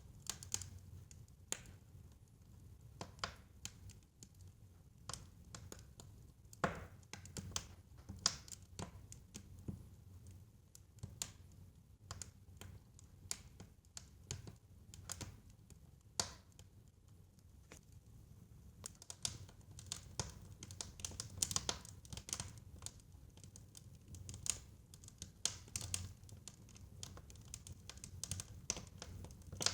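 Wood fire crackling in a fireplace: irregular sharp pops and snaps over a low rumble of flame, busier in the last third.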